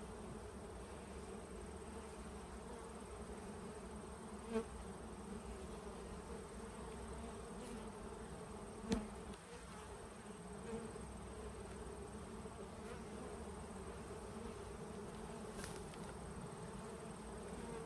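Honeybees buzzing around an open hive: a steady, even hum. Two light knocks come through, about four and a half and nine seconds in.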